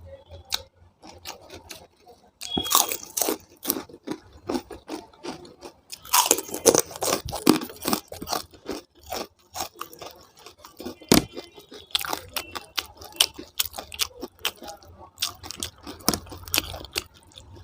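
Close-miked eating: chewing and crunching of food with wet mouth clicks, in irregular clusters of sharp crackles.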